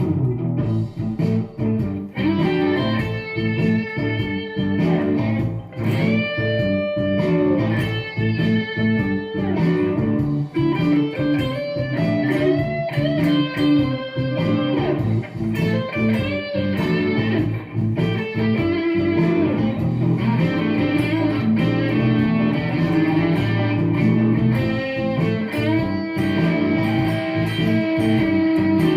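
Squier Affinity Starcaster electric guitar played through a Marshall Code 50 amp with a Caline Crazy Cacti overdrive pedal, playing blues licks with bent notes.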